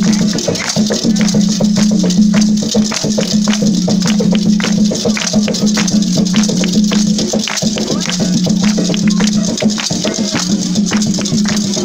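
Afro-Brazilian Candomblé ritual percussion: shaken rattles and struck percussion keeping a steady, quick beat of about four strokes a second over a steady low tone.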